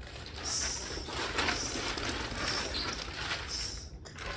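Rough flapping and rustling in uneven surges as pigeons are flagged up off the loft roof with a plastic flag on a stick.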